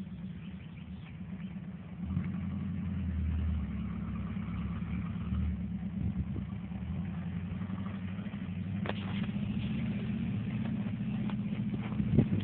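Subaru BRAT's flat-four engine running steadily, a little louder from about two seconds in. A single sharp knock sounds about nine seconds in.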